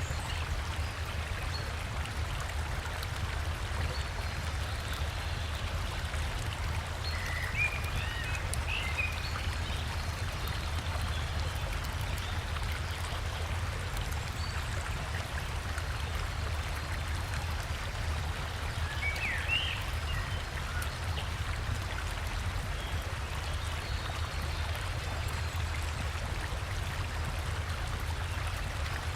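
River water rushing steadily over a small waterfall, with a low rumble under the splashing. A forest bird chirps briefly twice, about a quarter of the way in and again about two-thirds through.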